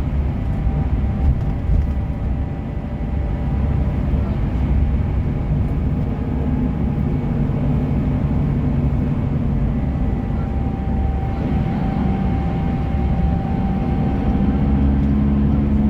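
A bus's diesel engine running steadily, a low even hum with faint held whine tones above it.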